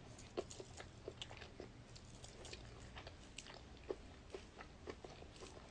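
Faint, scattered small clicks and ticks, a few a second, over quiet room tone.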